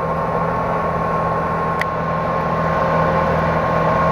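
Truck engine running steadily with a constant hum, getting a little louder about three seconds in; a small click near the middle.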